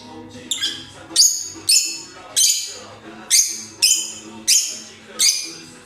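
Peach-faced (rosy-faced) lovebird giving a run of short, sharp, high-pitched chirps, about nine in a row at a steady pace of roughly one every two-thirds of a second.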